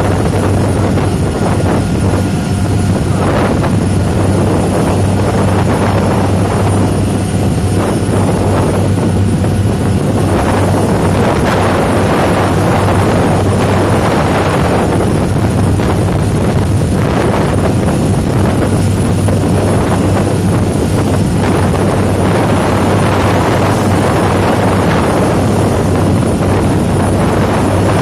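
Ferry engine running with a steady low drone, under heavy wind buffeting the microphone in gusts.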